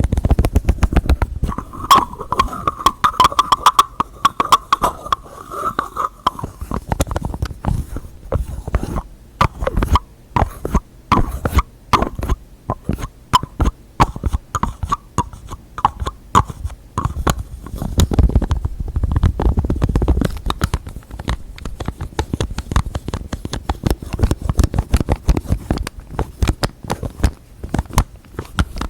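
Close-miked tapping on containers and their lids: quick, irregular taps throughout, with a ringing tone from about two to six seconds in and some heavier, duller taps about two-thirds of the way through.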